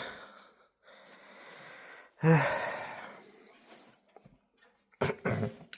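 A man breathing in and then letting out a long, weary sigh that fades away, in keeping with his saying he feels fatigued and a bit sick.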